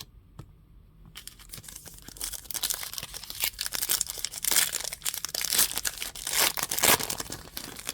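A foil trading-card pack wrapper being torn open and crinkled, starting about a second in: dense crackling that grows louder and busier through the rest.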